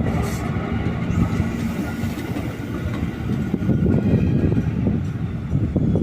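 Train moving along the rails, a steady low rumble with some wheel-on-rail clatter.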